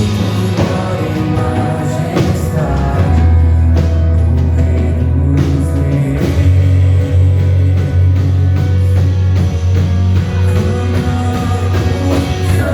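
Worship band music with a heavy bass note held under it and some singing.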